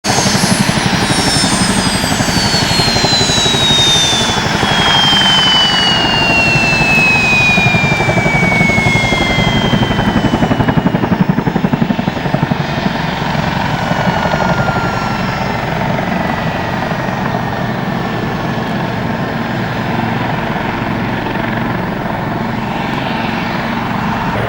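CH-47 Chinook tandem-rotor helicopter flying: a loud, rapid rotor chop under a high turbine whine that falls steadily in pitch over the first ten seconds or so.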